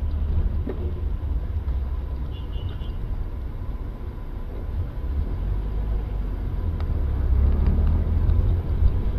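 Steady low rumble of a vehicle on the road, with a brief high warble about two seconds in.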